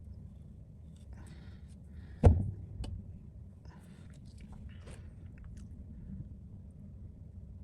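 Scattered scraping and rubbing as OCA adhesive is cleaned off an iPhone 14 Pro's OLED screen. One sharp knock about two seconds in, with a smaller click just after, over a steady low hum.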